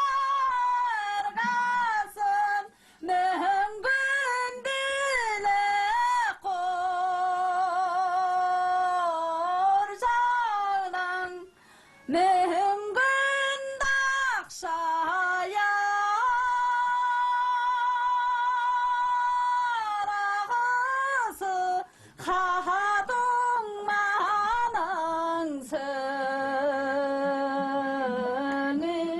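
A woman singing a slow song solo: long held notes with vibrato and gliding pitch, in phrases broken by short pauses.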